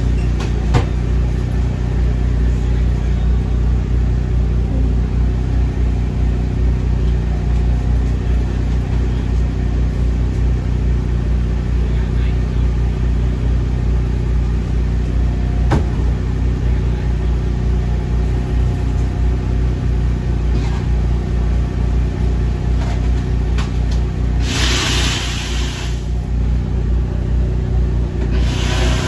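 Steady low mechanical hum of running machinery, with a brief hiss about twenty-five seconds in.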